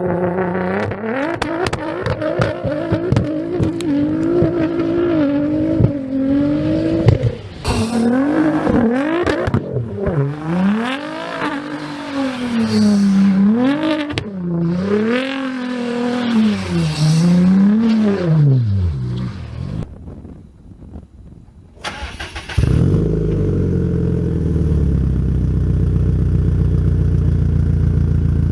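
Japanese performance car engine revving, its pitch climbing and falling again and again. About three quarters of the way through, it switches abruptly to a steady, deep engine idle.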